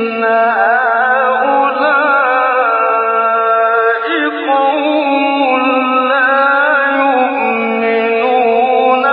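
A man's voice reciting the Quran in the melodic, drawn-out tajweed style, holding one long ornamented phrase without a break, its pitch wavering and stepping between notes.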